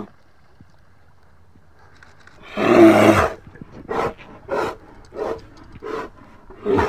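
Brown bears sparring, one giving a long roar about two and a half seconds in, then five short growls in quick succession, about one every two-thirds of a second.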